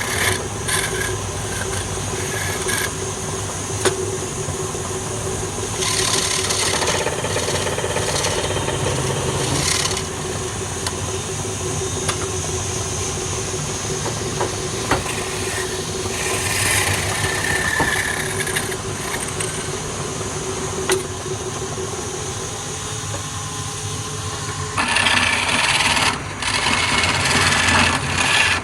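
Wood lathe running with a steady motor hum, and a turning tool cutting the spinning wood in several spells of hiss, the strongest near the end.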